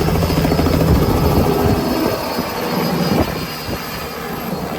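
A helicopter running close by, its rotor giving a fast, even chop over a low engine hum; the low hum fades about two seconds in and the whole sound eases a little later.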